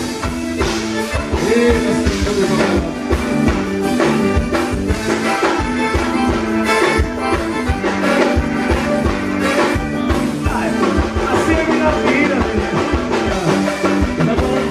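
Forró band playing live, a steady drum beat under held pitched instrument notes.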